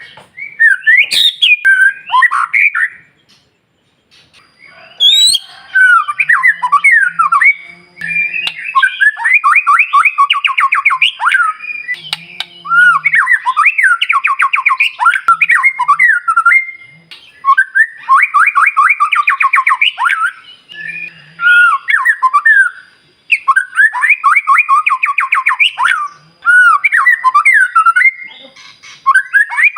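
White-rumped shama (murai batu) singing loudly in a fast, aggressive song. Its bursts of rapid repeated notes and harsh rattles come with short pauses between phrases, after a brief gap a few seconds in. It is the kind of song played to provoke other shamas into singing back.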